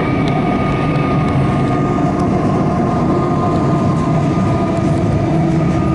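Inside a carriage of a Melbourne suburban electric train pulling into a station: steady running rumble with a thin, steady whine over it.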